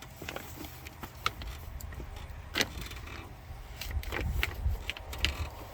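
Scattered clicks and knocks of door trim and hardware being handled, with one sharper click about two and a half seconds in and a low rumble of handling noise near the end.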